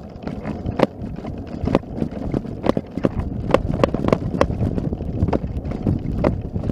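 Footsteps crunching through snow, one sharp crunch about every half second to a second, over a steady low rumble.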